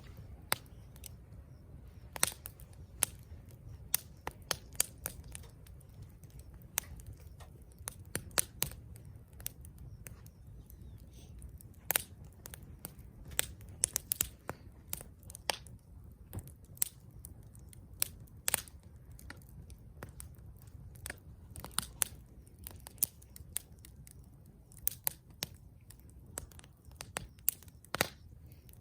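Wood fire crackling and popping: irregular sharp snaps, some in quick clusters and a few louder pops, over a low steady rush of the burning fire.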